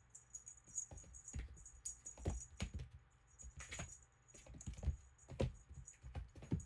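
Small bell on a swinging cat-toy bird jingling irregularly, mixed with soft thumps of a cat jumping and landing.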